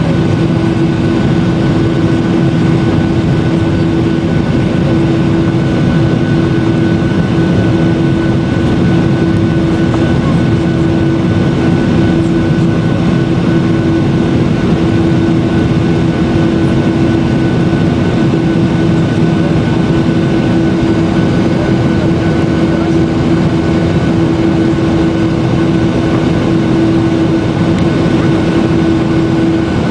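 Boeing 737-800's CFM56 turbofan engines running steadily: a loud, even roar with a constant droning hum over it.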